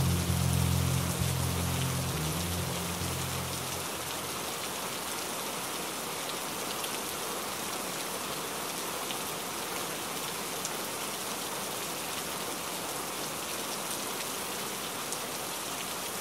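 Steady rain falling on a window, an even hiss with scattered small drop ticks. Low, mellow music notes fade out over the first few seconds, leaving only the rain.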